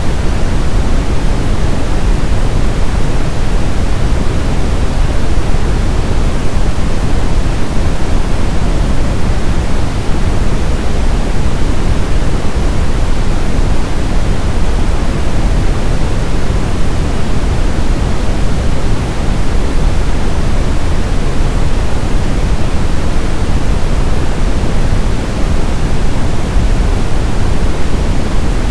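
Brown noise: a steady, loud, deep hiss with its weight in the low end, like a distant rumble, unchanging throughout.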